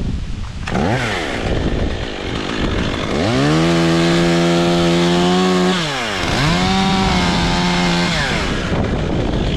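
Two-stroke chainsaw starting up about a second in, then revved to full throttle twice, held for about three seconds and then about two, dropping back to idle between and after.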